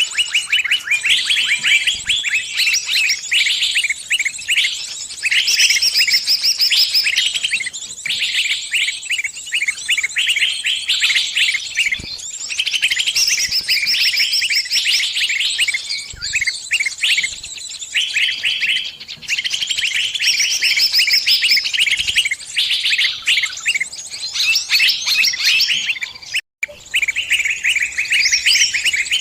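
Small bird's distress call, the 'kejepit' cry of a trapped or pinched bird calling its flock for help: rapid, insistent high chirps in dense repeated phrases, broken by a split-second gap near the end.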